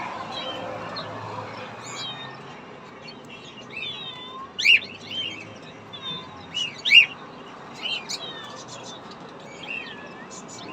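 Caged birds chirping, many short overlapping calls, with two louder calls about halfway through.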